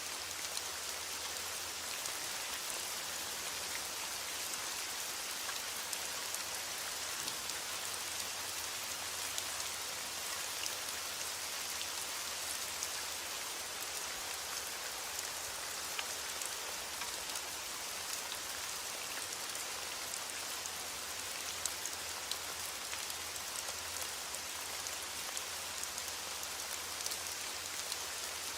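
Steady rain falling, a dense even hiss with many small drop ticks on a surface throughout.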